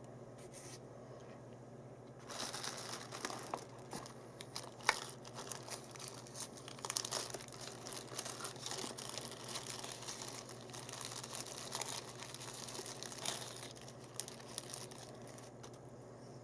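Packaging crinkling and rustling as it is handled: a dense, irregular run of crackles and small clicks that starts about two seconds in and dies away near the end.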